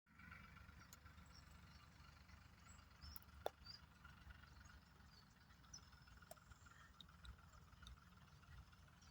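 Near silence: faint outdoor ambience with a low rumble and a faint steady high hum, broken by a single sharp click about three and a half seconds in.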